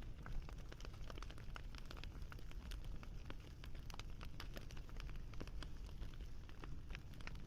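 Wood fire crackling: a low steady rumble with many irregular small pops and snaps, one sharper pop about half a second in.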